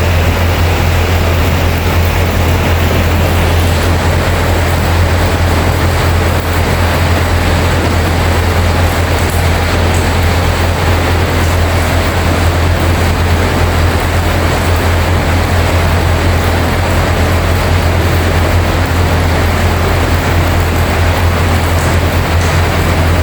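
Heavy rain falling in a steady, unbroken hiss, with a constant low hum underneath.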